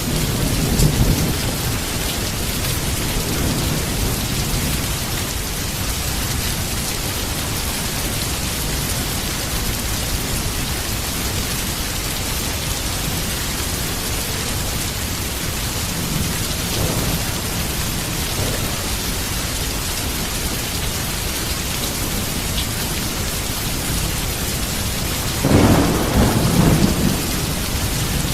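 Heavy rain falling steadily, with low rolls of thunder: one near the start, a faint one about halfway through, and a louder rumble near the end.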